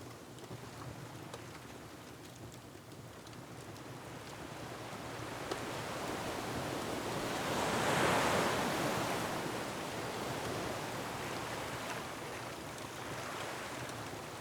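Ocean surf on a rocky shore: a wave swells to a peak about eight seconds in, then washes back and subsides. Faint crackles from a wood fire sound over it.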